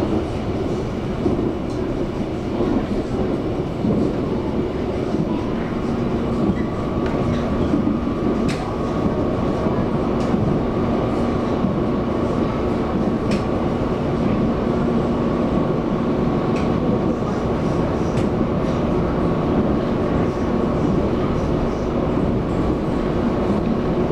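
Taiwan Railway EMU700 electric multiple unit running along the line, heard from inside the passenger car: a steady rumble of wheels on rail with a steady hum, a higher steady whine joining about six seconds in, and a few sharp clicks.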